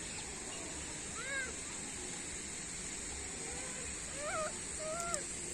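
A bird calling three times in short, arched calls, the last two close together near the end, over a steady background hiss.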